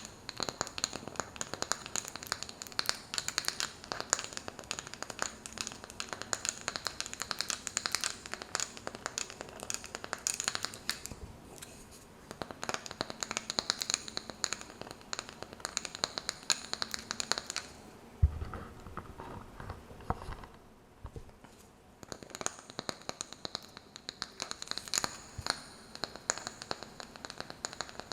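Fingernails tapping and scratching rapidly on a wooden candle lid, in dense clicking runs. The tapping breaks off for a few seconds after about eighteen seconds, with one low thump, then starts again.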